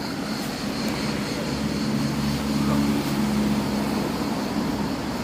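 Low engine hum of a passing vehicle. It swells about a second and a half in and fades again near the end.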